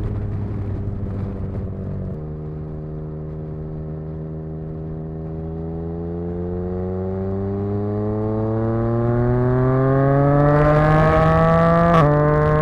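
Yamaha XSR900's inline three-cylinder engine running through an exhaust with the dB killer removed, under way: the note changes about two seconds in, then climbs steadily in pitch as the bike accelerates, and drops abruptly near the end with an upshift.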